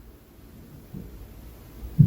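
Dull, muffled thuds carried through the ceiling from the apartment above, typical of inter-floor impact noise. A faint thud comes about a second in and a sharper, louder one at the very end.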